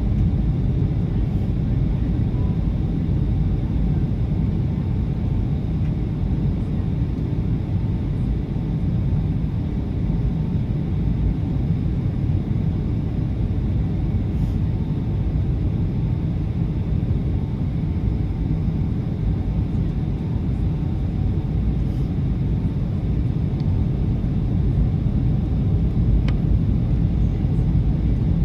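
Steady low rumble of a Boeing 757 airliner, engines and airflow, heard from inside the passenger cabin.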